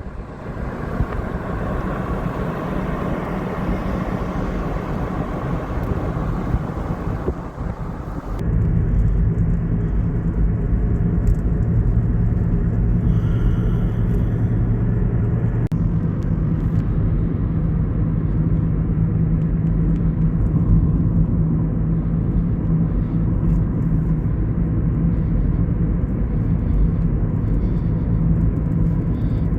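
A steady rush of storm noise for about eight seconds, then an abrupt switch to a steady low vehicle rumble that carries on to the end.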